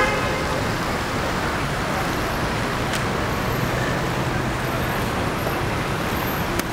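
City street traffic noise: a steady wash of car engines and tyres, with a faint low engine hum rising for a couple of seconds in the middle.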